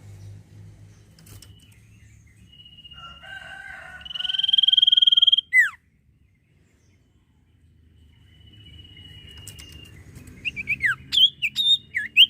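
Common iora singing: a long drawn whistle held on one pitch, swelling, then dropping sharply at the end, about five seconds in. Later comes a thinner held whistle, then a quick run of sharp chirps and short down-slurred notes near the end.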